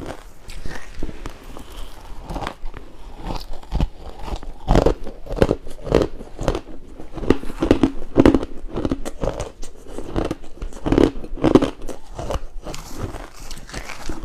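Pink ice being bitten and chewed close to the microphone: a quick, uneven string of crisp crunches, busiest and loudest through the middle.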